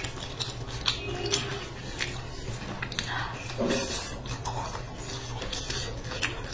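Close-up mouth sounds of biting and chewing a crisp fried, sugar-coated pastry: sharp irregular crackles and crunches over a steady low hum.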